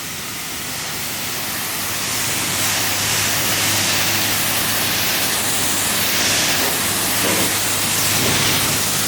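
High-pressure car-wash spray wand blasting water onto a car's paint: a steady, loud hiss with a low hum underneath, building over the first couple of seconds.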